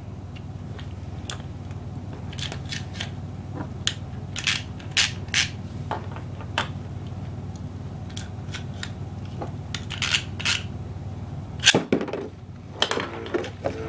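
Hard plastic clicking and knocking from Beyblade spinning tops and their launchers, in irregular sharp clicks with a loud knock about twelve seconds in.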